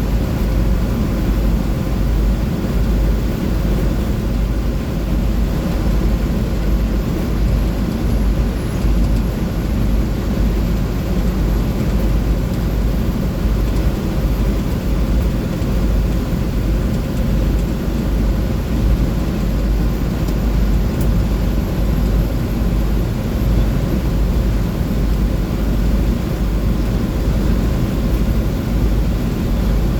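A 2004 Blue Bird 3800 school bus cruising at interstate speed, with its DT466E inline-six turbodiesel droning under a heavy, steady rumble of road and wind noise. A faint high whine slowly rises and falls.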